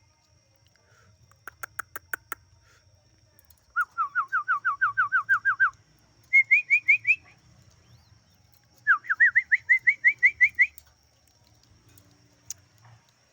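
A bird whistling three quick runs of repeated upslurred notes, about six a second, the last run climbing in pitch as it goes. A few sharp clicks come shortly before the first run.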